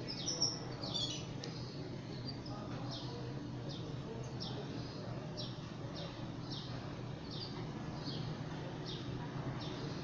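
Canary chirping: short, high, falling cheeps repeated about twice a second, with a louder flurry of chirps in the first second.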